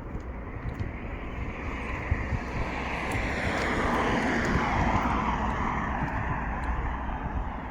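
A vehicle passing by on the road, its noise swelling to a peak about halfway through and then fading as its pitch drops.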